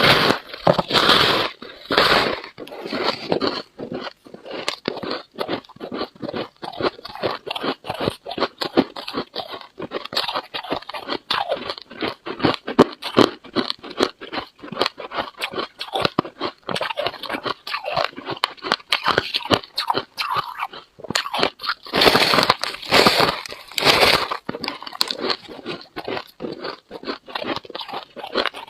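Freezer frost being bitten and chewed close to the microphone: a dense run of crisp crunches, with heavier bites near the start and again about three-quarters of the way through.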